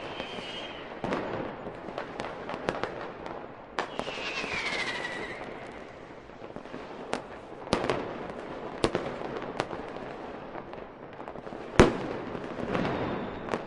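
Aerial fireworks going off in a string of sharp bangs and crackles, with a whistle falling in pitch about four seconds in and the loudest bang near the end.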